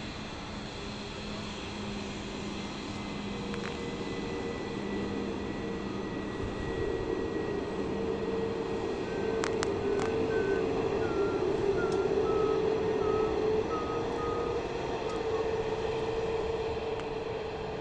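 Airbus A321neo jet engines, a broad steady noise with a low hum that builds slowly to its loudest a little past the middle and then eases off.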